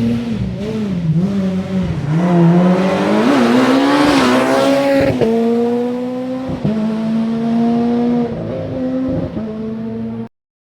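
Rally car engine at full throttle on a special stage, revs climbing to a peak about five seconds in, then falling sharply and running on at lower pitch with several short dips as the car lifts and changes gear. The sound cuts off abruptly near the end.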